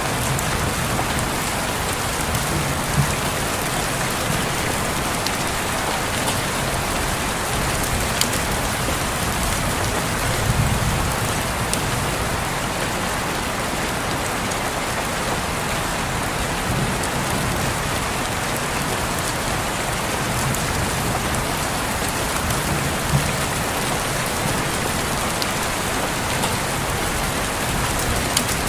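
Steady rain falling on a window, an even hiss with occasional sharp drip ticks and a few brief low rumbles, the strongest about ten seconds in.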